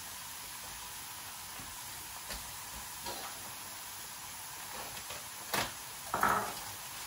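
Chopped shallots sizzling softly as they sweat in a frying pan with very little oil, a steady low hiss. A few light knocks and clicks come over it, the two loudest close together near the end.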